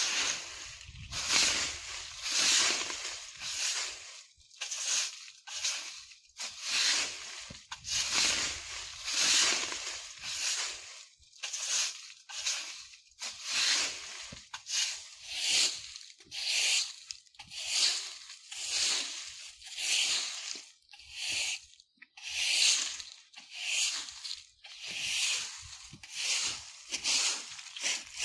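Broom sweeping dry leaves on the ground: a steady rhythm of rustling, scraping strokes, about one a second.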